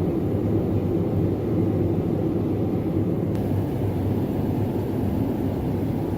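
Steady cabin noise of a Boeing 787-9 airliner in flight: a low, even rush of engines and airflow, with one faint click about three seconds in.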